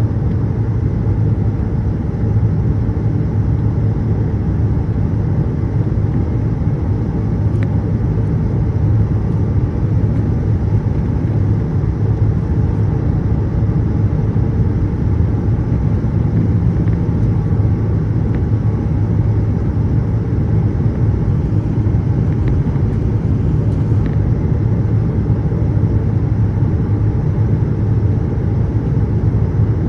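Steady, loud rumble of a Boeing 787-8 airliner heard from inside, the noise of its engines and airflow in flight.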